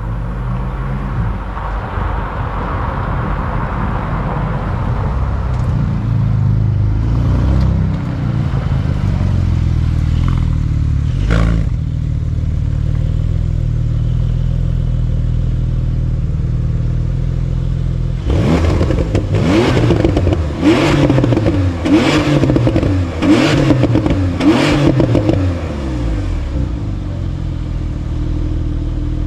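Porsche 911 Turbo S (992) twin-turbo flat-six running through a QuickSilver titanium active-valve sport exhaust. It runs steadily with a single sharp crack around eleven seconds in, then is blipped about six times in quick succession, each rev rising and falling, before settling back to idle.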